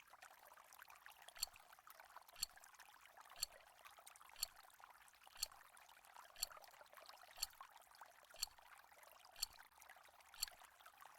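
Countdown-timer tick sound effect: short, quiet clock-like ticks once a second, ten in all, over a faint hiss.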